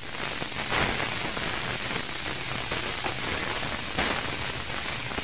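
Chopped onion and garlic sizzling in hot oil in a kadhai: a steady frying hiss as the onion cooks toward golden. There are louder stirring scrapes about a second in and near four seconds.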